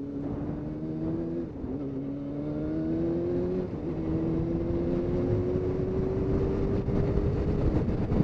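2003 Yamaha R6's inline-four engine with a Remus aftermarket exhaust can, accelerating under the rider's helmet camera: its pitch climbs, drops briefly at a shift about a second and a half in and again near four seconds, then rises slowly and steadily in the higher gear.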